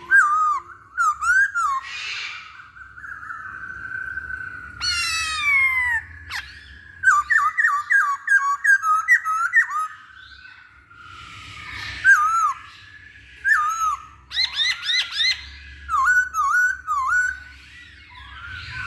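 Black-throated laughingthrush (poksay Hongkong) singing a long, varied run of loud whistled phrases: quick slurred notes, a series of descending sweeps about five seconds in, and a rapid chattering string of notes around seven to nine seconds in.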